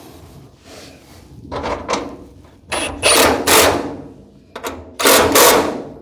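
Tool work on a garage door hinge: three short, loud bursts of rough, rasping mechanical noise, each lasting under a second, about a second and a half apart.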